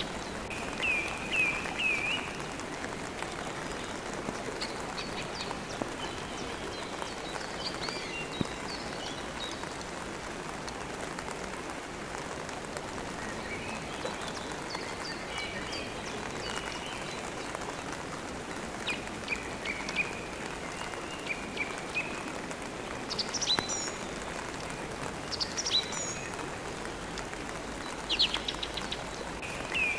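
Steady rain with songbirds chirping on and off over it, in short groups of quick high chirps.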